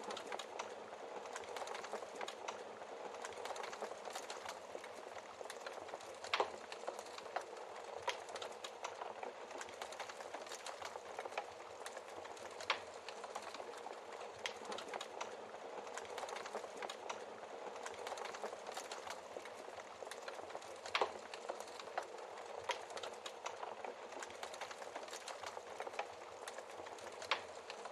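Wood fire crackling: a steady hiss with many small pops and a few louder snaps, about four of which stand out above the rest.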